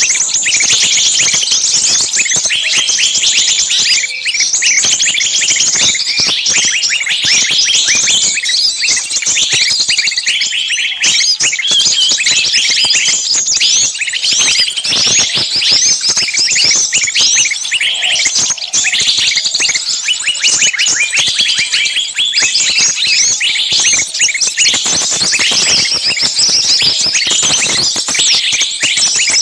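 Many small birds chirping and twittering at once in a dense, unbroken chorus of quick, high, overlapping calls.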